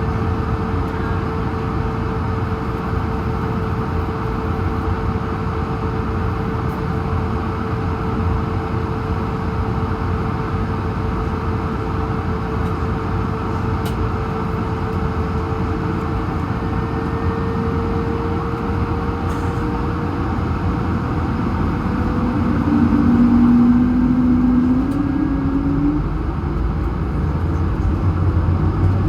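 Airbus A220-100's Pratt & Whitney PW1500G geared turbofans heard from inside the cabin, holding at a steady hum with a steady tone, then spooling up for takeoff in the last third: the tone rises slightly, new tones come in, and the sound grows louder.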